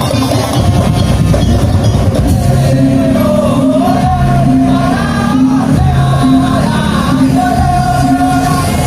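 Loud live music from a percussion band: a wavering melody line over a repeating low bass figure, with some shouts.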